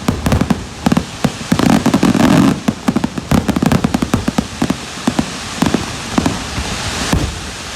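Fireworks and firecrackers going off: rapid, irregular bangs and pops, many a second, over a continuous crackle.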